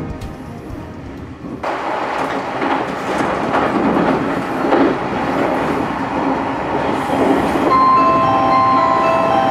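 Tilting limited-express train running at speed, heard from inside the passenger car: a steady rumble of wheels on the rails that cuts in suddenly about one and a half seconds in. Marimba-like music comes in near the end.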